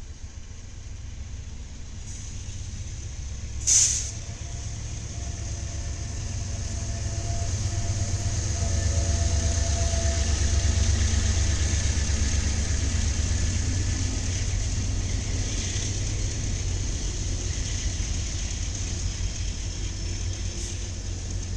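Freight train passing on rail-cam audio: a low rumble of diesel locomotives and rolling cars that builds to its loudest about halfway through, then eases off. A short, sharp hiss comes about four seconds in.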